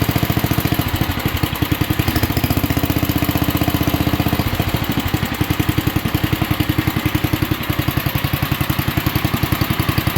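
1967 Unico garden tractor's 7 hp single-cylinder Briggs & Stratton engine running steadily at low RPM, a fast, even chug of firing pulses.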